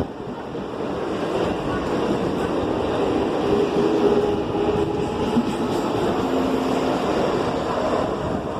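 Mumbai suburban local train running, a steady noisy rumble of the coaches on the track.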